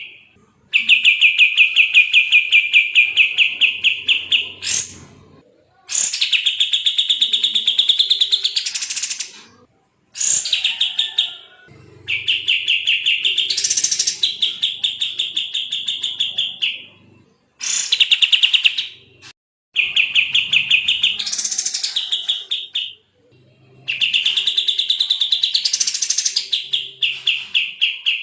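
A kapas tembak bird singing fast, tight trilled phrases of rapidly repeated notes. Each phrase lasts a few seconds, some rising in pitch near the end, and they repeat about seven times with short breaks between.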